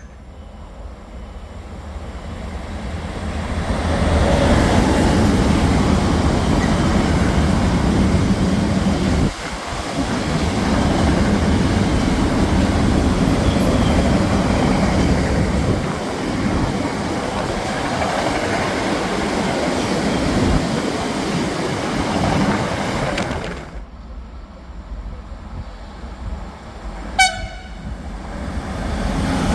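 A freight train passing through the station: its rumble and wheel noise build over about four seconds, hold steady for nearly twenty seconds, then fall away. Near the end there is a brief horn toot.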